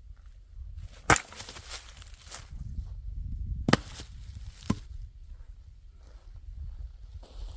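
Heavy blows splitting a large log with an axe and hammer. A loud strike about a second in is followed by about a second of crackling, then two more strikes come about a second apart.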